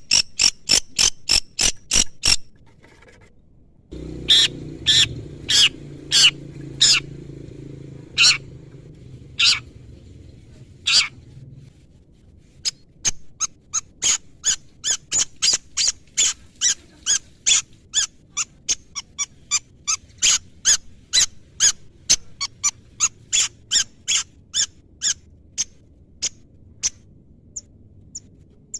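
Long-tailed shrike (cendet) calling in runs of sharp, repeated high notes: a slower run of about one and a half notes a second, then a faster run of about three a second. A low rumble sits underneath for several seconds during the slower run.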